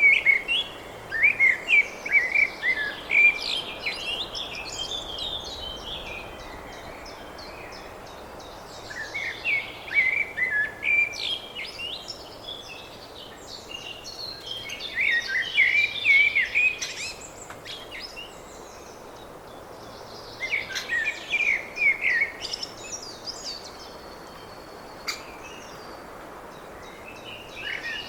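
Small birds chirping and twittering in bouts of a few seconds, with quieter stretches between them, over a steady background hiss.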